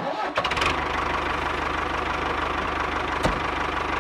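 Small stationary diesel pump engine starting, with a few uneven beats, then running at a fast, steady chug. A single sharp click sounds about three seconds in.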